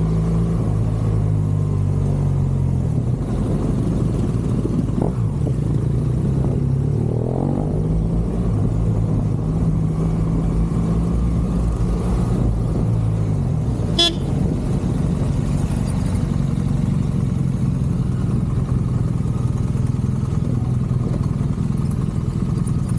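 BMW R1200GSA flat-twin motorcycle engine running under way, its pitch rising and falling with the throttle. A single sharp knock comes about fourteen seconds in, after which the steady engine note drops away.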